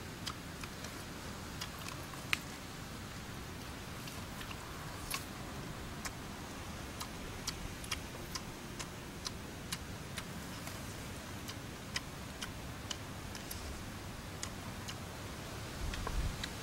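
Chewing and lip-smacking while eating grilled snake meat: scattered small sharp clicks at irregular intervals over a steady low background hiss, with a low rumble rising near the end.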